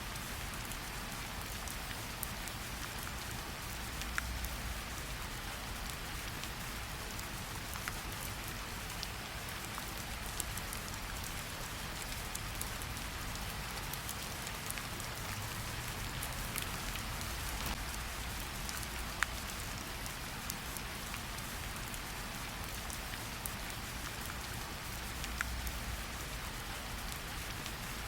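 Steady gentle rain pattering on tree leaves, with scattered louder individual drops dripping off the leaves at irregular moments.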